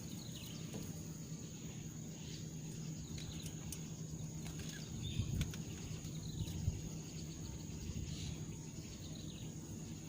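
Open-air ambience with a steady high-pitched insect drone, faint short bird chirps and a low steady hum underneath.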